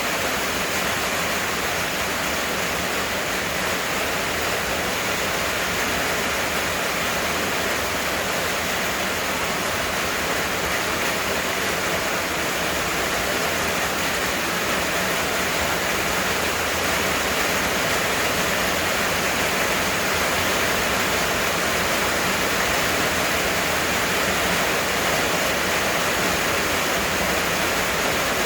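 Heavy rain pouring down in a steady, even hiss, with no separate drops or other events standing out.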